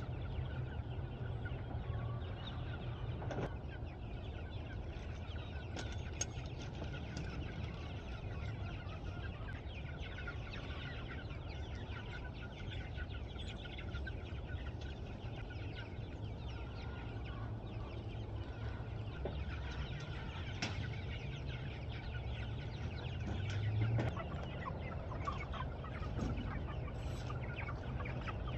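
A flock of meat chickens clucking and chattering, a dense run of short calls over a steady low rumble.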